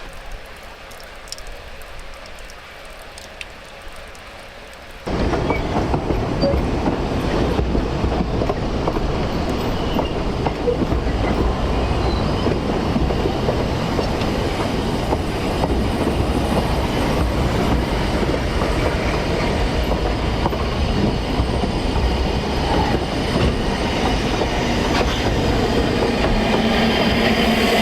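Narrow-gauge steam train running on the line, with a steady rumble and the clatter of wheels on the rails. The sound jumps sharply louder about five seconds in.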